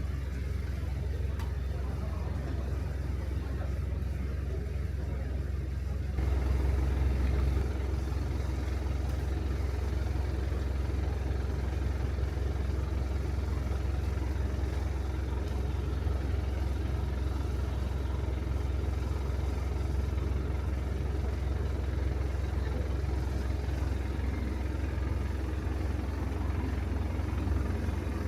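A motor vehicle's engine running steadily with a low rumble, briefly louder about six seconds in.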